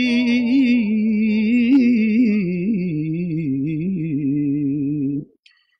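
A man singing a naat unaccompanied, drawing out one long note with a wavering vibrato that settles lower about halfway through, then breaking off a little before the end.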